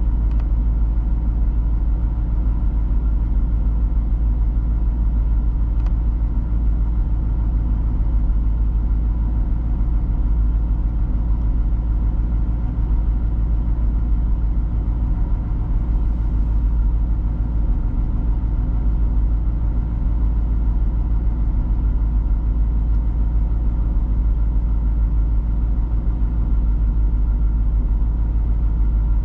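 1992 Chevrolet Corvette's LT1 5.7-litre V8 idling steadily while warming up after a cold start.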